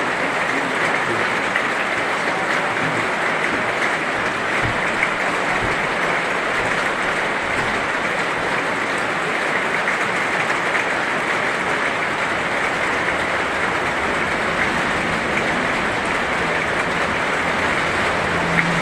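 Heavy rain falling steadily, a dense, even patter with no breaks.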